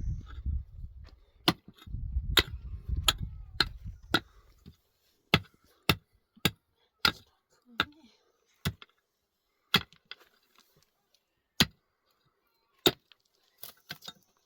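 A series of sharp, separate knocks of a hand tool striking wood, about one a second at an uneven pace, with a low rumble under the first few seconds.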